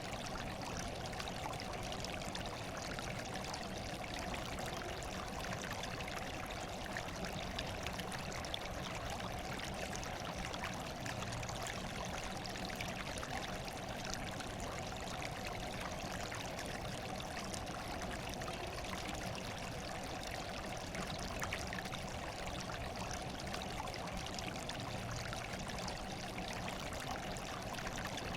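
Steady running water, trickling and pouring without change.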